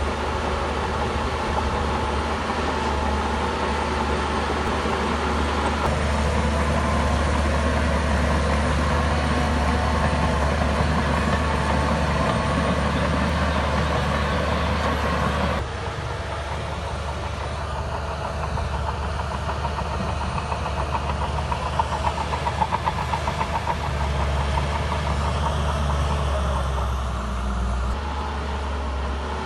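Bulldozer's diesel engine running steadily under load, with a deep low hum. About halfway through the sound changes abruptly to a somewhat quieter engine note, and a few seconds later comes a run of quick rattling clicks.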